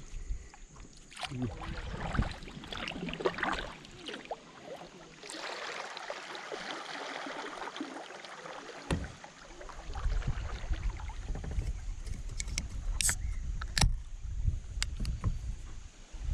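Kayak paddling: paddle blades splashing and dripping in the water, with a couple of sharp knocks near the end.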